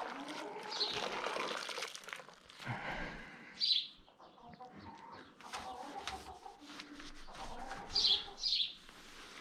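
Small birds chirping in short, high calls: one about a second in, another near the middle, and two close together near the end. Under them runs a fainter steady background noise.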